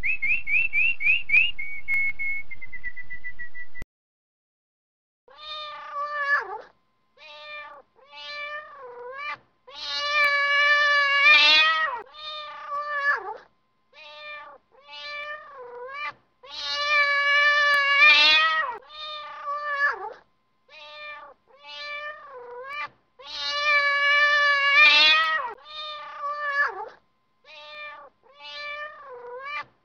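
A canary's song of quick, high repeated notes ends just under four seconds in. After a short pause comes a long run of cat meows, about twenty of them: mostly short, with three drawn-out ones, many sliding down in pitch at the end.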